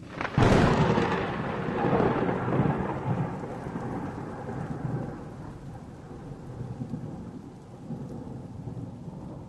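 A thunderclap: a sudden crack about half a second in, then a rolling rumble that slowly fades.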